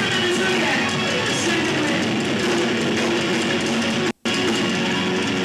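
Live rock band playing, electric guitar to the fore. The sound cuts out completely for a split second about four seconds in.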